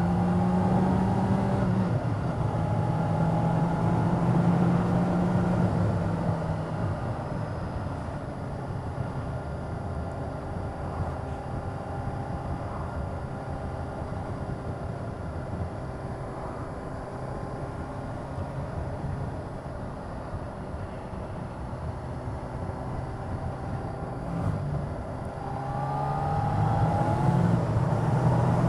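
Motorcycle engine running under way. The engine note is strong at first, eases off through the middle as the bike rolls on lighter throttle, then rises again near the end as the engine revs up.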